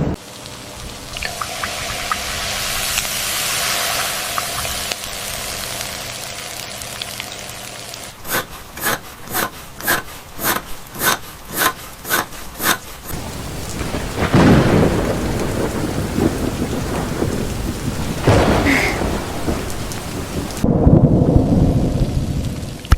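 Steady rain with rolls of thunder, the biggest rumbles coming past the middle and near the end. In the middle, a run of about ten even pulses, two a second, sounds over the rain. A low steady hum lies under the rain for the first third.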